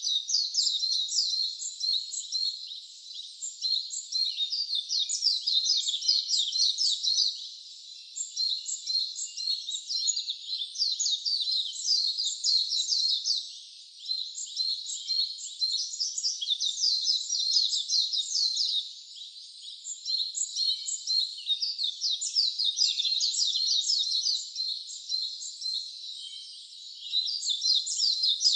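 Wild bird singing: fast runs of high, rapidly repeated chirps in phrases several seconds long, with short pauses between phrases.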